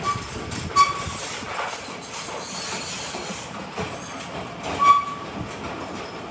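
Commercial overhead garage door running closed: a continuous rattling rumble of the moving door with a few short high squeaks.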